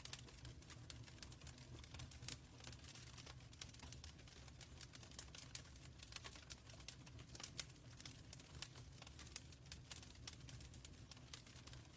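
Fireplace fire crackling softly: irregular quick pops and snaps over a steady low rumble.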